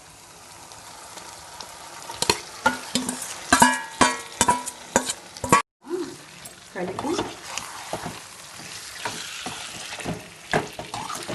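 Marinated chicken sizzling in hot oil in a kadai with fried onions and green chillies, stirred with a metal spoon that scrapes and clinks against the pan. A run of sharp, ringing clinks falls between about two and five seconds in, and the audio drops out for an instant just after that.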